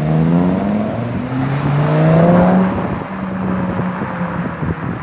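A car engine revving and accelerating, its pitch climbing twice, loudest about two and a half seconds in. It then settles to a steady drone.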